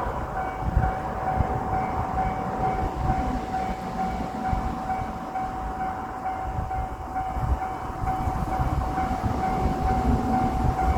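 A Japanese level crossing's electronic warning bell rings steadily while a diesel limited-express railcar, the red Anpanman train of JR Shikoku, passes through with a low rumble and wheel knocks.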